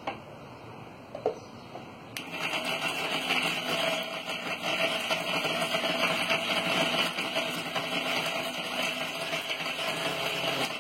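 A couple of clicks, then an electric mixer grinder starts about two seconds in and runs steadily, grinding dry roasted spices into masala, before cutting off suddenly.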